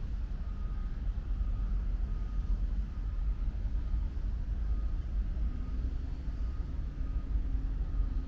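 Low, steady outdoor rumble with a faint steady whine above it; a second low hum joins about five and a half seconds in.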